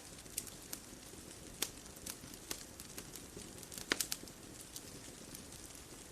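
Bonfire crackling: irregular sharp pops of burning wood over a soft steady hiss, with a quick cluster of louder pops about four seconds in.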